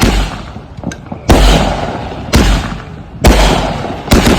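Aerial fireworks bursting overhead: loud booms about once a second, each trailing off in a rumbling echo, with a quick run of sharp cracks near the end.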